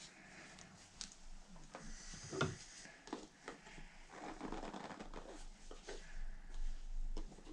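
Handling noise of a soft rubber RC paddle tire being twisted on its wheel rim to line up the bead notches: faint rubbing and scuffing with scattered small knocks.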